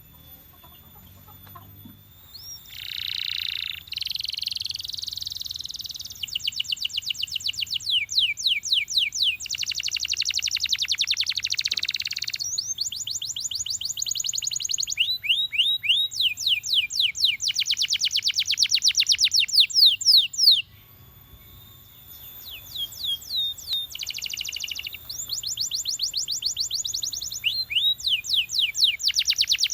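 Domestic canary singing: a run of trilled phrases, each a fast string of repeated sweeping notes, with short breaks between phrases and one longer pause about two-thirds of the way through.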